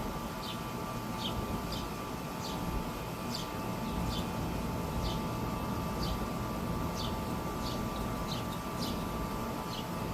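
Steady low background rumble with a faint hum, over which short high chirps repeat about every half second to a second.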